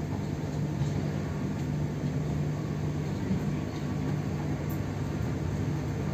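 Steady running noise of a passenger train in motion, heard from inside the carriage: a continuous low rumble with a steady hum.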